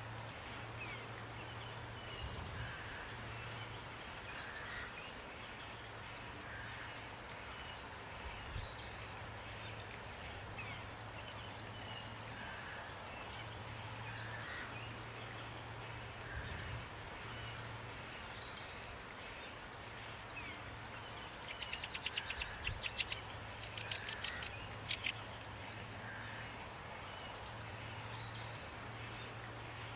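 Songbirds singing short, high, sweeping phrases again and again over a steady hiss of rain. About two-thirds of the way through, a rapid run of sharp clicks is the loudest sound.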